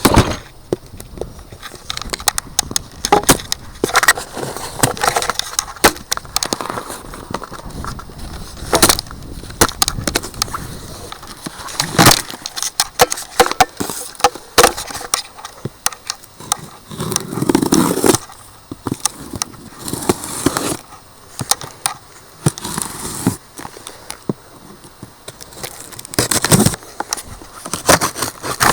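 Cardboard shipping box being opened by hand: packing tape and cardboard flaps ripping, and packing material rustling and crackling, with many sharp knocks and clicks.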